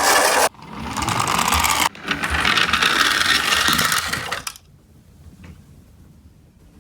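Toy minicar mechanism giving a dense rattling whir in three stretches, each cut off sharply, then dying away a little past halfway.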